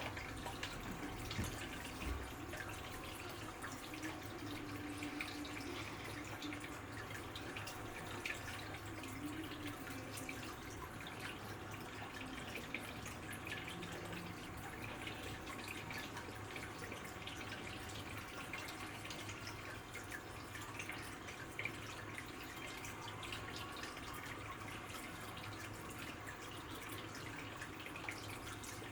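Water dripping and trickling, many small irregular drops and splashes over a steady low hum.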